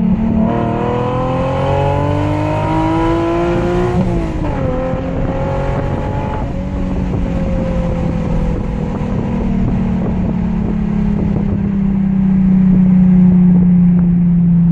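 Infiniti G37 Coupe's 3.7-litre V6 through a non-resonated Topspeed axle-back exhaust, accelerating with the note climbing, then dropping sharply at an upshift about four seconds in. After that the engine settles into a steady low drone while cruising.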